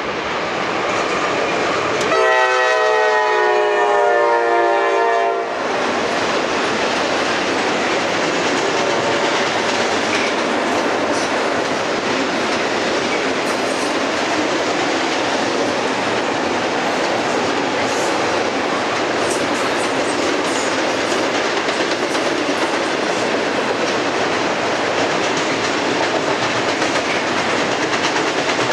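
Freight locomotive's air horn sounding one long blast of about three seconds, a couple of seconds in, over the roar of the train. The intermodal train's trailer and container cars then roll steadily across a steel bridge with clattering wheels.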